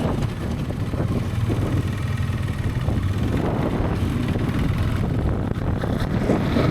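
Motorcycle engine running steadily, with wind rushing over the microphone.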